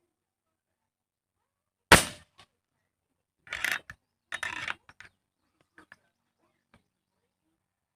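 A single sharp crack, like a shot, about two seconds in, followed by two short bursts of rustling noise and a few faint clicks.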